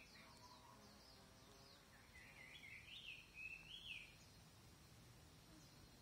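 Faint outdoor ambience: a songbird gives a brief warbling, wavering phrase between about two and four seconds in, with a few thin high notes at the start, over a faint steady high-pitched insect-like hum.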